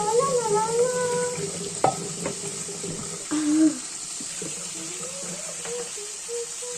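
Kitchen tap running into a sink during dishwashing, a steady hiss of water, with a couple of sharp dish clinks about two seconds in.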